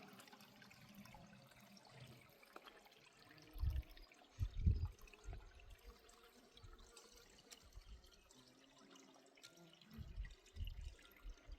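Faint trickling of running water, with a few short low thumps partway through and again near the end.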